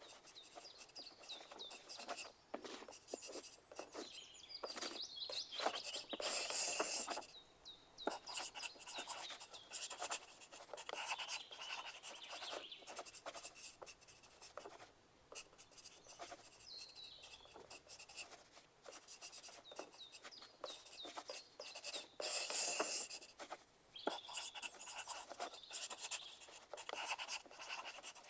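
Pencils writing on paper: a steady run of quick scratching strokes, with two longer, louder stretches of scratching about six seconds in and again about twenty-two seconds in.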